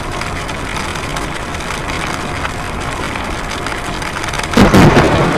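Steady stormy hiss, then about four and a half seconds in a sudden loud crack of a nearby lightning strike, running on as sharp crackles.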